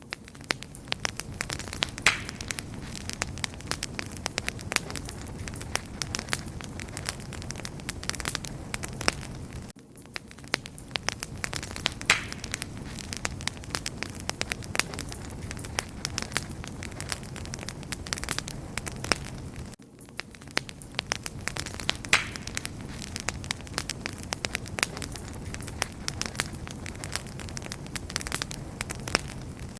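Wood campfire burning, with dense crackling and sharp pops over a steady low rumble. The sound dips briefly about every ten seconds, where the same stretch of crackles repeats.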